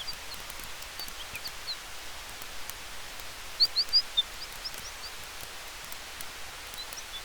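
Night-forest campfire ambience: a steady hiss of wind in the trees with faint crackles of the fire. Short high chirps come in small clusters, a few right at the start and a quick burst about three and a half seconds in.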